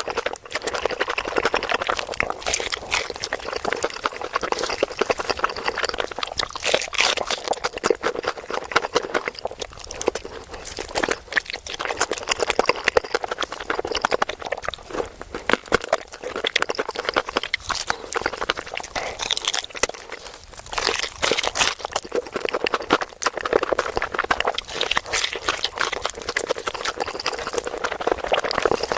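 Close-miked chewing and biting of a spicy chicken leg: a dense, continuous run of short mouth clicks and crunches, with no break.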